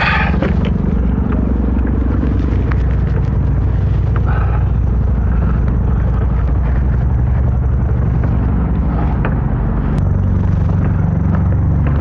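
A passing boat's engine running steadily, a low, even drone.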